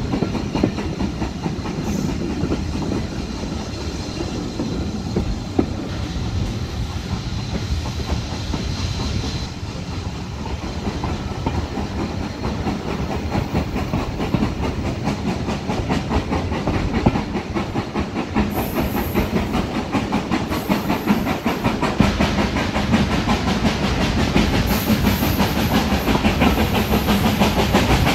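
Steam-hauled passenger train in motion, heard from an open carriage window: a constant clickety-clack of the coach wheels on the rails over a steady rumble, growing louder over the last few seconds.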